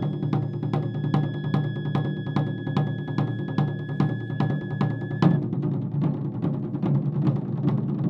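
Japanese taiko drums beating a steady, fast rhythm of about four strikes a second, with a high flute note held over the drumming until about five seconds in.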